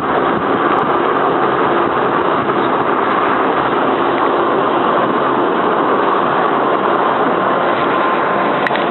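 Steady drone of the parked Canadian Pacific Holiday Train's diesel engines idling, with a faint steady hum riding on it.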